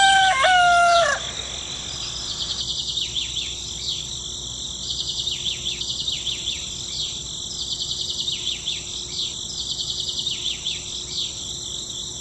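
A rooster crowing, its call ending about a second in, followed by rapid repeated high-pitched chirping over a steady high hum.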